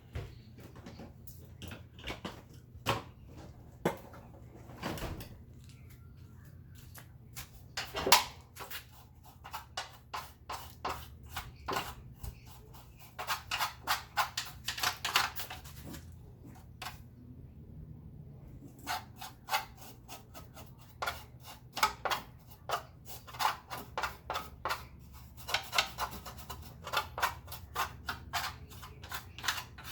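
Handling of vacuum cleaner parts: irregular clicks and knocks, with stretches of rapid clicking, over a low steady hum.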